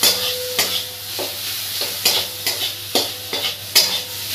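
Sliced onions sizzling in hot mustard oil in a metal kadhai while a metal spatula stirs them, scraping and knocking against the pan about twice a second.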